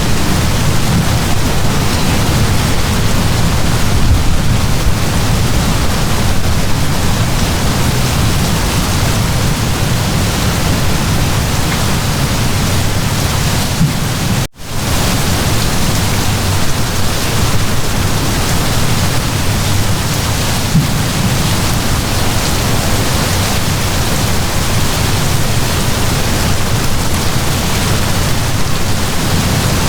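Heavy downpour of rain, a steady dense hiss with a deep low rumble underneath. It drops out abruptly for a split second about halfway through, then carries on unchanged.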